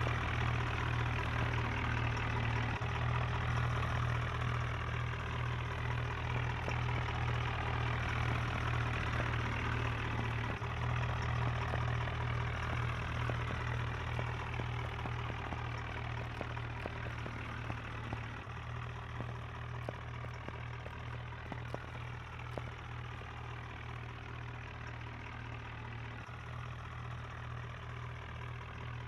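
Diesel engine of a heavy machine, a JCB backhoe or a tractor, running steadily at idle, growing slowly fainter.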